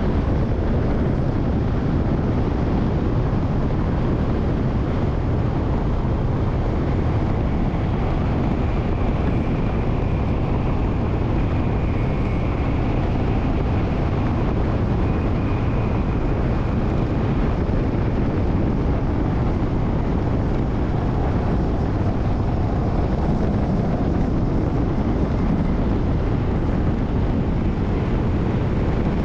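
Motorbike running steadily at road speed, with wind rushing over the microphone.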